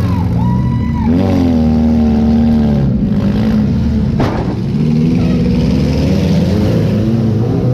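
Demolition derby car's engine, heard from inside the car, revving up and down in surges with a brief steady stretch. A single sharp bang cuts through about four seconds in.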